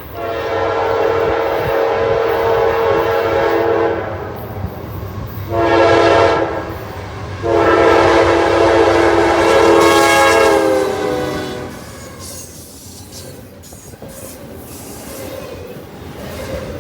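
Freight train's air horn sounding three blasts, a long one, a short one and another long one, its chord dropping slightly in pitch at the end of the last blast as the locomotive passes. After that the train's cars roll by with a steady rumble and clicking wheels.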